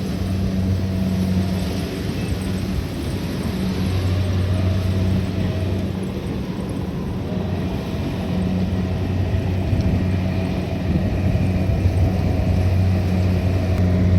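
Kubota DC-70 Plus combine harvester's diesel engine running steadily under load while harvesting rice, a constant low hum.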